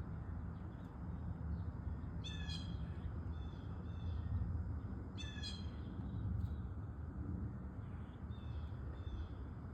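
Blue jay calling: two harsh, buzzy calls about three seconds apart, with softer short calls in between, over a steady low background rumble.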